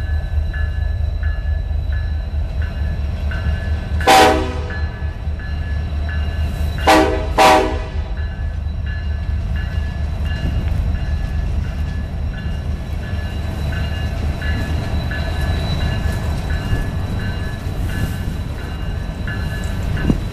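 Freight train rolling past, steel coil cars and gondolas rumbling steadily on the rails. A train horn sounds one blast about four seconds in, then two short blasts about three seconds later.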